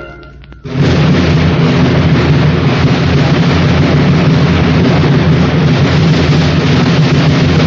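A loud, steady rushing noise with a low rumble underneath, starting abruptly under a second in: a radio-drama sound effect, such as a storm or a crowd.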